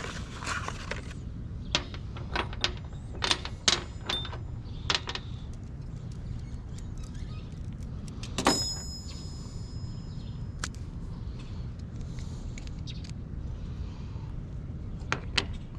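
Small soldering supplies being handled: scattered clicks and taps, with one sharper metallic clink about halfway through that rings briefly. A steady low hum runs underneath.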